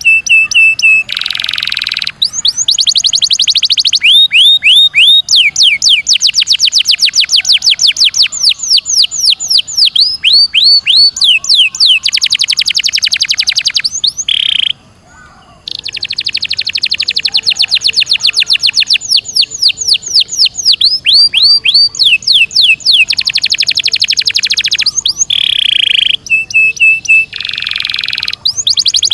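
Domestic canary singing a long rolling song: fast trills of rapidly repeated, downward-sweeping notes alternating with long held buzzy notes, with a short break about halfway through.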